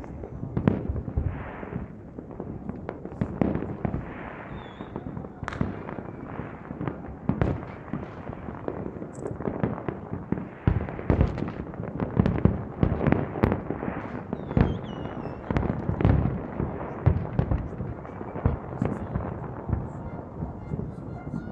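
A fireworks display: dense, irregular booms and crackles from aerial shells bursting, many overlapping, with echoing tails and a few faint whistles.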